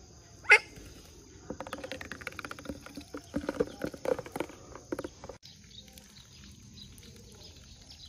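A bird gives one short, sharp rising call about half a second in. It is followed by a few seconds of rapid, irregular pattering and splashing mixed with short chirps, which stops abruptly.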